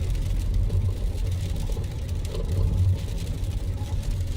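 Car running on the road, heard from inside the cabin: a steady low rumble with an even hiss above it.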